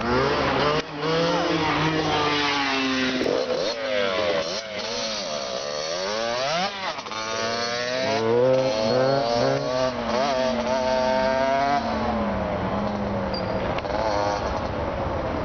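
Kawasaki KX60 two-stroke dirt bike run flat out. The engine pitch climbs and falls back several times as it goes up through the gears, loudest past the middle, then settles into a steadier, lower drone near the end.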